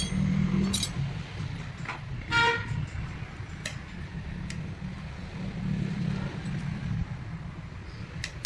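A short vehicle horn beep about two and a half seconds in, over a steady low traffic rumble, with a few sharp clicks.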